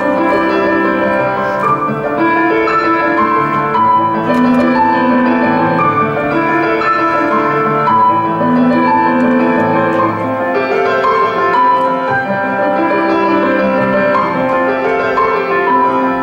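Instrumental piano music, a continuous melody of held and overlapping notes.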